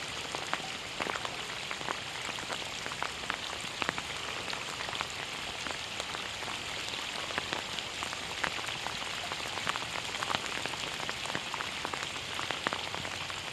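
Steady rain falling: a constant hiss with many scattered drops tapping close by.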